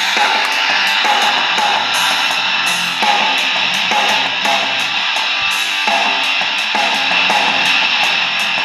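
Rock music with electric guitar from an FM broadcast, playing through the Sony ICF-SW7600GR's small built-in speaker, with little bass.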